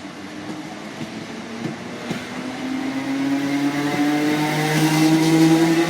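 Class 317 electric multiple unit approaching and passing, its motors giving a hum of several steady tones that slowly rise in pitch as it grows louder.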